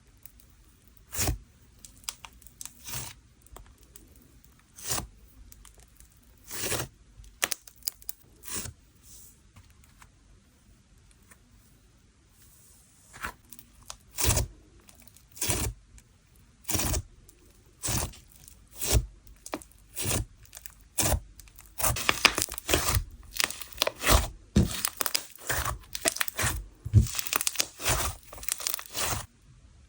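Sand-texture slime being worked by hand, giving short crackly, tearing sounds as it is pressed and pulled apart. The bursts come about once a second at first and grow faster and denser in the last third.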